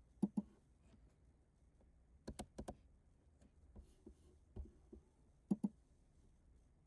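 Faint room tone broken by sharp clicks: a quick pair near the start, four in quick succession about two and a half seconds in, and another quick pair near the end.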